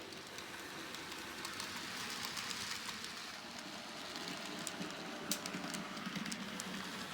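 Model railway train running on the layout: a steady rolling hiss with a faint low hum and scattered sharp clicks, the loudest about five seconds in.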